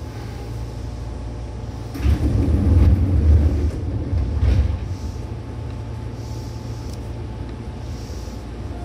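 Seibu 2000 series electric commuter train running, heard from inside the car as a steady rumble. A heavier, louder low rumble swells about two seconds in and eases off by about five seconds.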